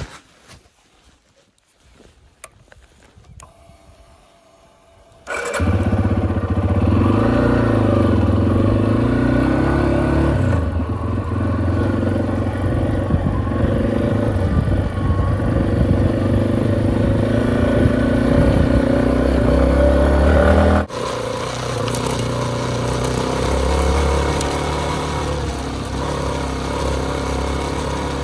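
Yamaha XT250 motorcycle's single-cylinder engine starting about five seconds in, after a few faint clicks, then running at a steady pitch. Its sound drops suddenly quieter about twenty seconds in.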